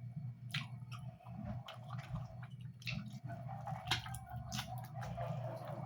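Close-miked wet chewing of curried pork, with sharp lip smacks and mouth clicks every second or so.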